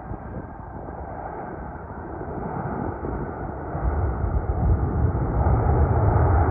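Boeing 737-800 on approach, its two CFM56 jet engines making a rushing noise that grows louder as the plane nears, with a deep rumble coming in about four seconds in.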